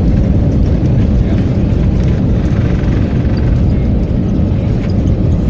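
Steady loud rumble inside an Airbus A321's passenger cabin: engine and airflow noise with no distinct events.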